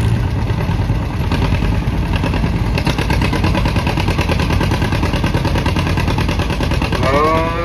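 Antique farm tractor engine running hard under load as it pulls a weight sled down the track.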